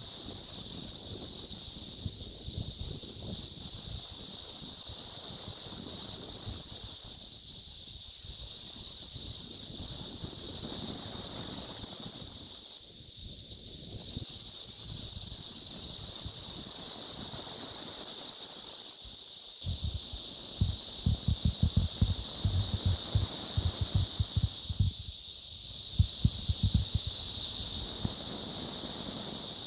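Chorus of periodical cicadas: a loud, steady high-pitched drone that rises and dips slightly in waves. From about two-thirds of the way in, a low buffeting rumble of wind or handling on the microphone comes in under it.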